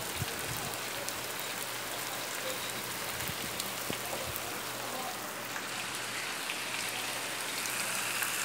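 Steady rain falling and splashing on a wet street, with scattered sharp ticks of drops hitting nearby surfaces. It grows slightly louder and brighter near the end.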